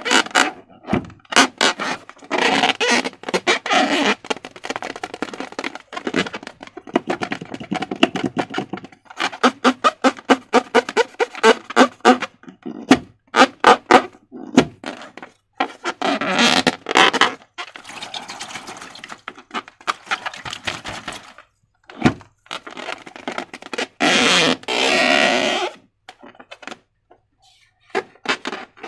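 Slime being squished and worked by hand with rubber balloons: dense runs of wet clicks and crackles, with short rubbery squeaks and a longer hissing rush near the end.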